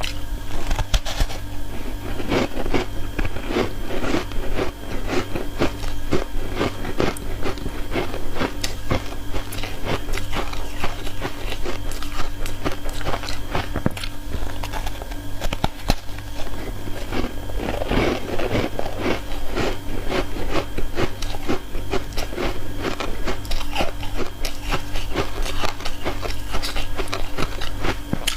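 Ice being bitten and chewed close to the microphone: a dense, continuous run of sharp crunches with no pauses, over a steady low hum.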